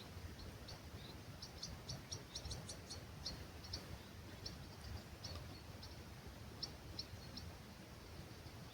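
Faint birdsong: small birds giving short, high chirps, with a quick run of them in the first few seconds and then scattered calls, over a low rumble of breeze.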